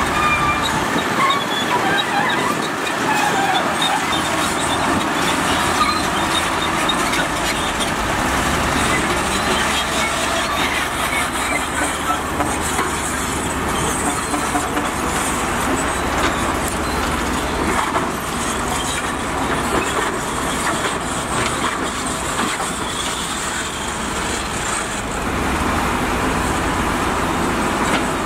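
Diesel heavy construction machinery running steadily, with a low engine hum that grows stronger about eight seconds in and again near the end.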